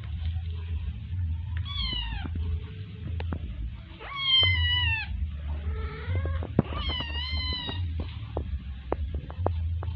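Mother cat calling her kittens with three drawn-out meows, each falling in pitch at the end, the second and third the loudest, with a fainter, lower call just before the third. Scattered small clicks and a steady low hum lie underneath.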